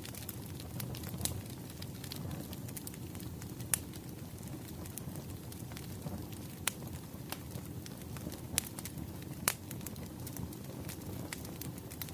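Wood fire burning: a steady low rumble with irregular sharp crackles and pops from the burning logs, a few louder snaps scattered through.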